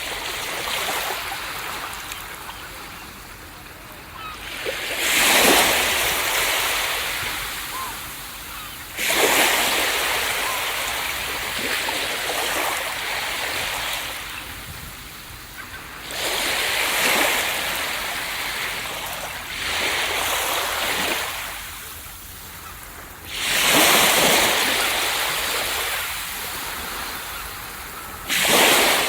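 Ocean surf breaking on a beach: six waves, each crashing in with a sudden swell of noise and then slowly washing out.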